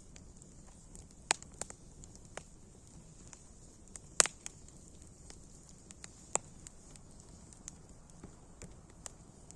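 Wood fire crackling: irregular sharp pops and snaps over a faint steady hiss, with the loudest pops about a second in, about four seconds in, and about six seconds in.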